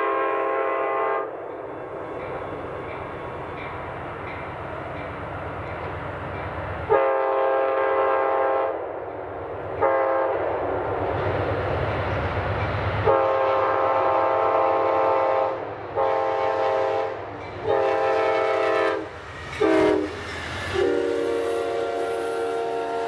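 Diesel locomotive air horn sounding a series of blasts, some long and some short, over the steady rumble of a moving train.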